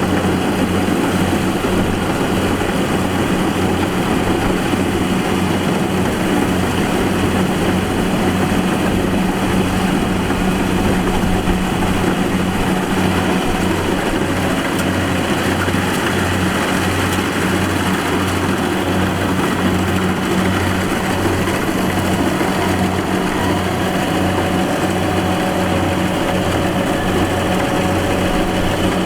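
Combine harvester's diesel engine running steadily at an even pitch, with a low regular throb under the hum.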